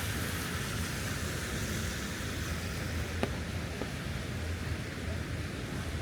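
Steady hiss of rain over a low, constant rumble, with a single sharp click about three seconds in.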